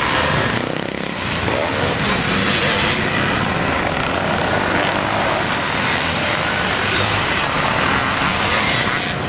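Several motocross bikes running on the track at once, their engines making a loud, steady, overlapping drone with pitches rising and falling as riders open and close the throttle.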